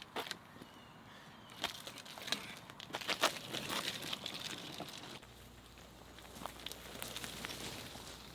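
Irregular crunching and scraping of yard work in sand and soil, a scatter of sharp clicks for about five seconds, then dying down to a faint low hum.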